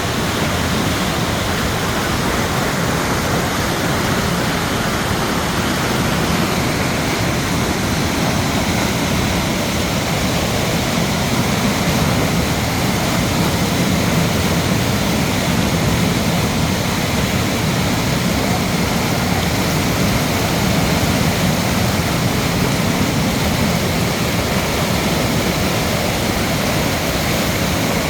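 Mountain stream water rushing steadily over rocks, a loud, unbroken flow.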